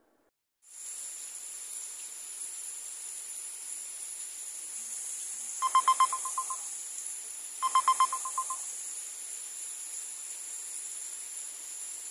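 Steady hiss of heavy rain. Around the middle, two loud short trills of a pulsing beep-like tone sound about two seconds apart.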